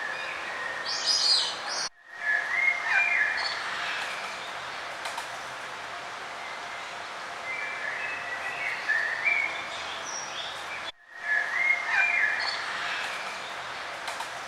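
Small birds singing and chirping, with short gliding whistles, over a steady outdoor background hiss. The sound breaks off abruptly for an instant twice, about two seconds and eleven seconds in.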